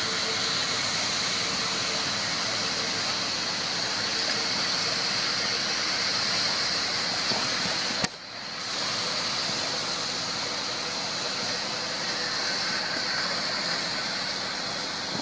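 Passenger coaches of a departing train rolling along the rails: a steady rushing noise, which drops out briefly about eight seconds in.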